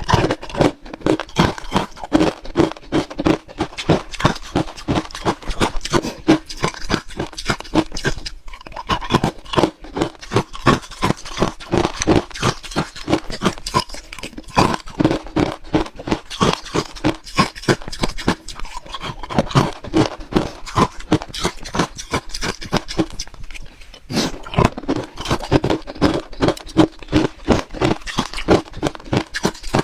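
A person crunching and chewing frozen matcha ice in quick, sharp crunches several a second, with short breaks every few seconds between bites.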